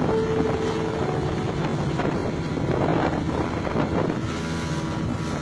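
Small motorboat's engine running steadily, with wind buffeting the microphone.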